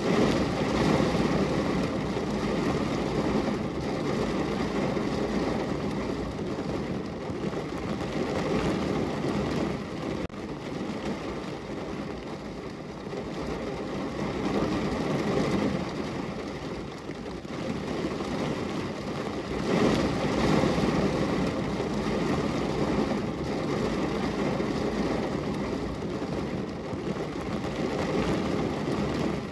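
Steady rain falling on a window, a dense even noise that swells louder a few times and eases off again.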